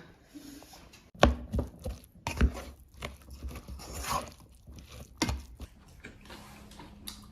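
Several sharp knocks and clatters of objects being handled, the loudest about a second in and again near the middle, with soft rustling between.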